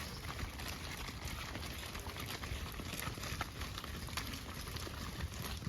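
A herd of cattle walking past on a dirt road: a steady shuffle of many hooves with scattered small clicks and knocks.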